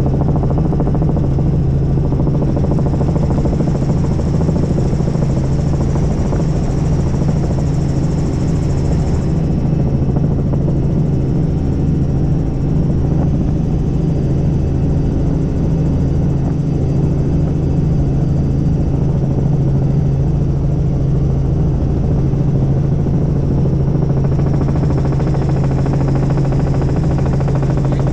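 Helicopter in flight: a steady low hum from the rotor and engine, with a faint high whine above it.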